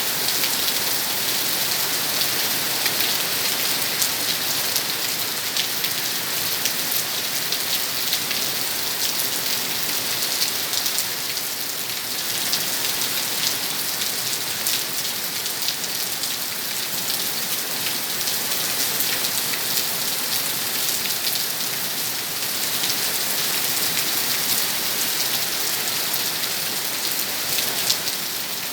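Steady rain falling, a dense hiss with many individual drops ticking on surfaces.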